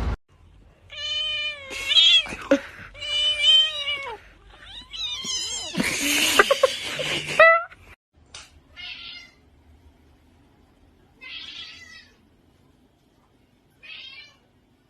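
A cat meowing over and over. There are several long, loud meows in the first half, then a few shorter, fainter ones.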